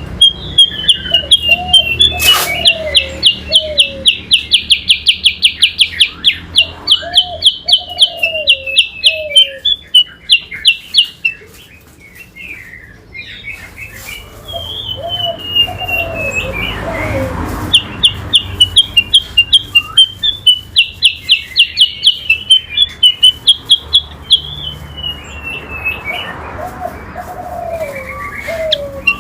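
Songbirds singing: the kutilang sutra and the kacer (oriental magpie-robin) deliver long runs of rapid, loud, repeated high chirps. The song drops away briefly near the middle, then resumes. A lower, curving call recurs a few times underneath.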